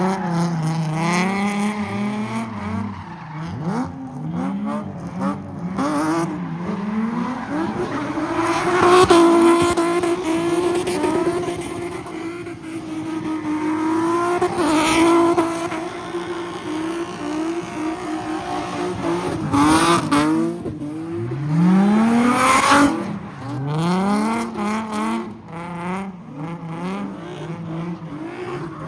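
A car engine revving hard over and over, held at high revs for several seconds in the middle, with tyres squealing as the car spins in a car pit.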